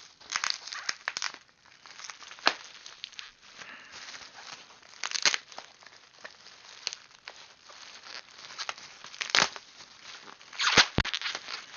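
Product packaging being opened by hand: irregular crinkling and tearing, broken by scattered sharp clicks and knocks, the loudest pair near the end.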